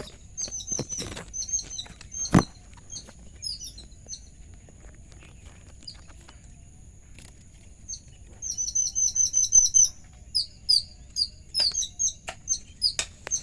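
Babbler chicks at the nest chirping in short high calls, with a fast run of about eight chirps a second about halfway through. A single sharp knock sounds about two seconds in, over a steady high-pitched whine.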